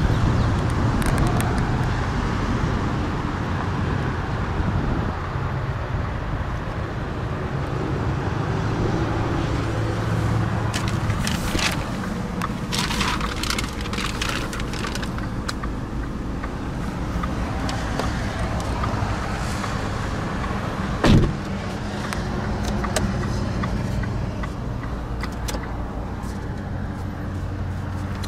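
Haima M3 idling with a steady low hum, heard from inside the cabin. There is brief scratchy rustling near the middle and a single sharp click about two-thirds of the way through.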